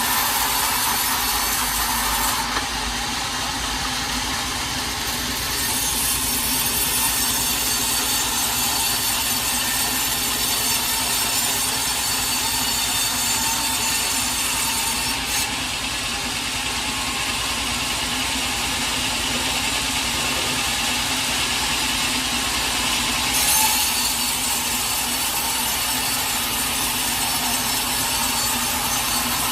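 A sawmill saw cutting lengthwise through a teak log: a continuous hissing rasp over a steady motor hum. The sound changes abruptly a few times.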